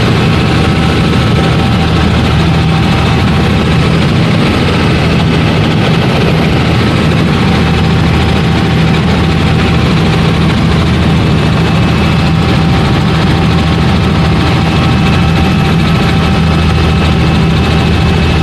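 Helicopter engine and rotor running steadily and loud: an even low drone with a thin steady whine over it.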